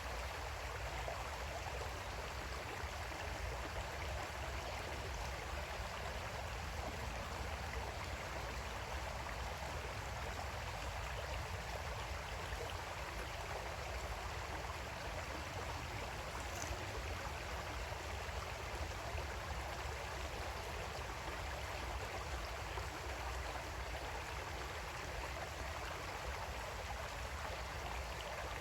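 Creek water flowing steadily over rocks, an even rushing with a low rumble beneath.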